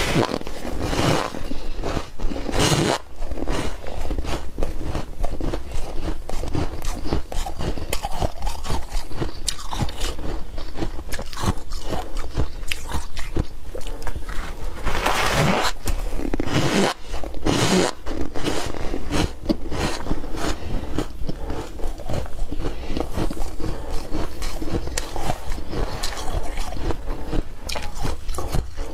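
Close-up crunching and chewing of soft, frosty ice, a dense run of crackles and crisp bites with louder bursts of crunching every so often.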